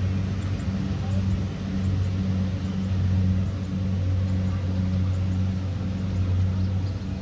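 Kubota DC70pro combine harvester's diesel engine running at a steady speed, a constant deep hum with machinery noise over it.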